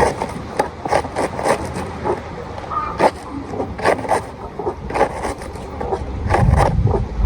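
Knife cutting cabbage in a quick, irregular series of short slicing strokes. Wind buffets the microphone near the end.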